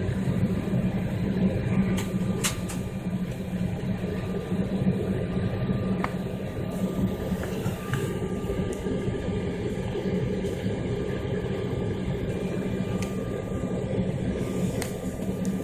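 Steady low drone of an airliner's engines and airframe heard inside the passenger cabin, with a couple of faint clicks about two seconds in.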